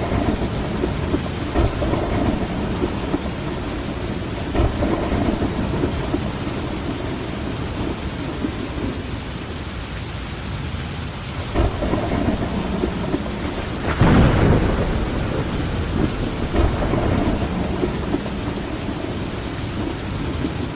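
Steady rain pattering on window glass, with thunder rumbling underneath; the loudest roll of thunder comes about two-thirds of the way through.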